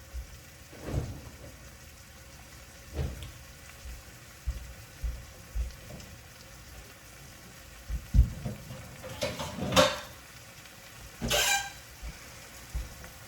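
Wooden spoon knocking and scraping against a non-stick pan of chicken in adobo sauce, in irregular strokes, with a faint steady sizzle underneath. The loudest strokes come about two-thirds of the way in and again near the end.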